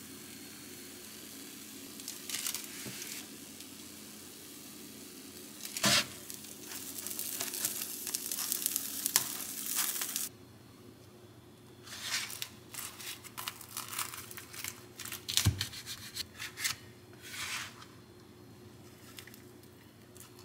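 A tortilla wrap filled with egg, cabbage and shrimp sizzling in a non-stick frying pan, with a sharp clack about six seconds in. About ten seconds in the sizzle cuts off, and short scrapes and clatters of spatulas and utensils follow, with one sharp knock a few seconds later.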